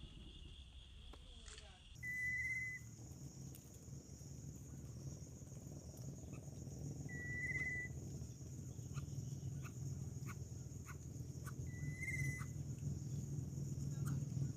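Outdoor ambience of steady insect buzzing, with a short high warbling call heard three times about five seconds apart over a low background hum.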